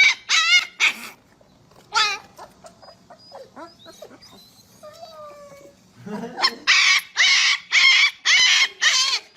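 A dog giving repeated high-pitched wavering yelps: a quick run at the start, softer whimpers in the middle, then a fast series of loud yelps, about two a second, through the last few seconds.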